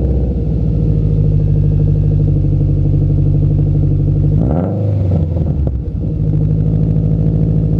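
2014 Subaru WRX turbocharged 2.5-litre flat-four running through an Invidia N1 dual-tip cat-back exhaust, idling after a cold start. About halfway through it is blipped once: the pitch rises and falls back over a second or so, then it settles to a steady idle again.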